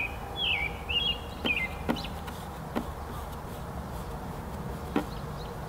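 A songbird sings a quick phrase of chirping, swooping notes in the first second or so, over a steady low outdoor rumble. A few short, soft clicks follow later.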